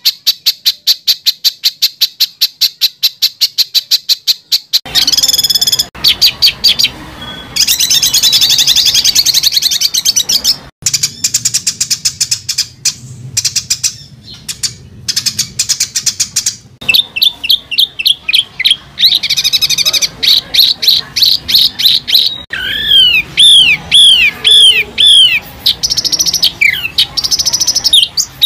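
Songbird singing a masteran song: a fast run of sharp repeated notes, about five a second, then varied chattering phrases, and near the end a string of arched whistled notes.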